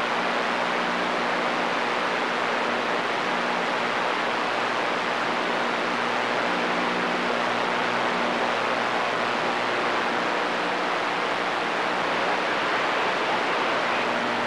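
CB radio receiver hissing with steady static between transmissions, with a faint low hum under it.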